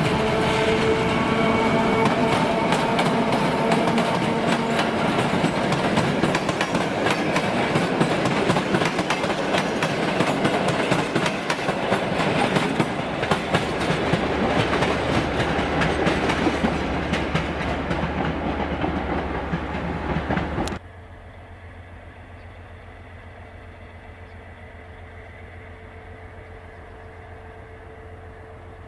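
A train passing close by, its wheels clattering over the rail joints in a loud, steady rumble. About two-thirds of the way in, the sound cuts off abruptly to a much quieter, steady low engine hum.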